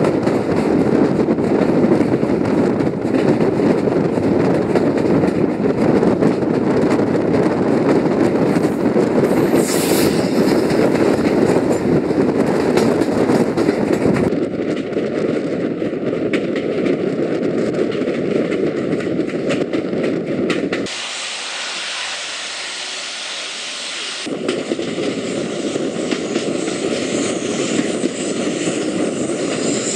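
A train running along the track, heard from an open coach window: a steady rumble with a dense rattle of wheels on the rails. The sound changes abruptly about halfway through. For a few seconds about two-thirds of the way in, the rumble drops away, leaving mostly a hiss, before the running noise returns.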